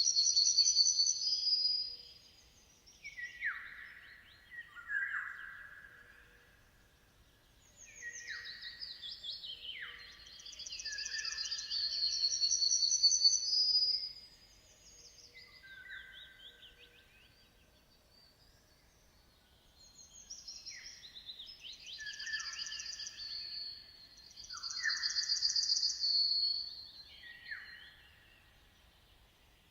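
A songbird singing long, varied phrases of high trills and downward-sliding notes, three phrases with short pauses between them.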